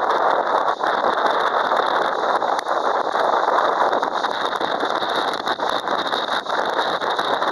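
Typhoon storm: a steady rushing hiss of wind and rain, with faint scattered taps.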